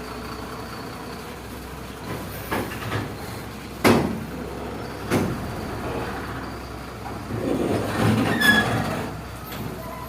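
Container truck going by: a steady low hum, two sharp clanks about four and five seconds in, then a louder passing stretch with a short squeal near the end.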